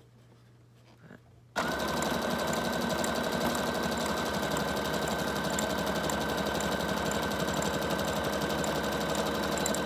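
Electric sewing machine stitching a zigzag seam at a steady speed, starting about one and a half seconds in after a quiet moment.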